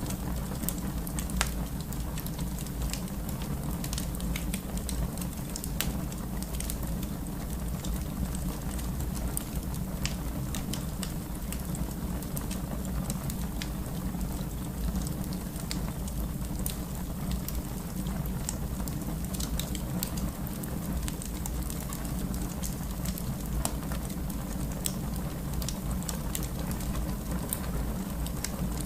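Wood fire burning in a fireplace: a steady low rumble of flames with sharp crackles and pops scattered throughout.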